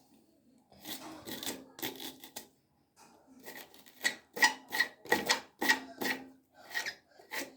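A doll's synthetic hair being combed: a series of short, scratchy strokes, quicker and louder in the second half.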